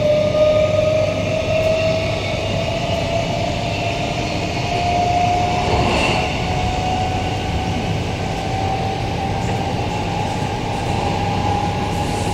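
Queensland Rail electric multiple unit running, its traction motor whine rising slowly and steadily in pitch over a steady rumble as the train gathers speed. A brief rattle about six seconds in.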